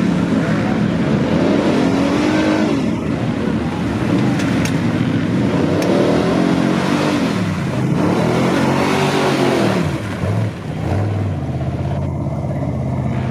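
Mud-bogging truck engine revving hard several times, its pitch climbing and falling in long swells, then settling into a steadier, lower drone near the end.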